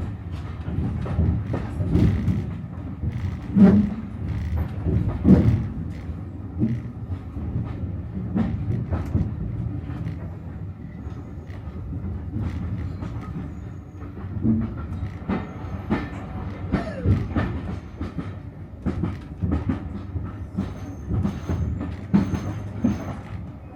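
Heritage diesel train carriage running along the line, heard from on board: a steady low rumble with irregular clicks and knocks from the wheels over the rail joints, and a faint high squeal near the end.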